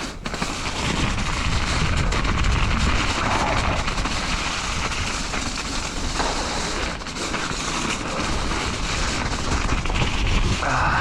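Wind buffeting an action camera's microphone during a mountain bike descent, a continuous rushing noise with heavy low rumble, mixed with the rattle of the bike on the trail.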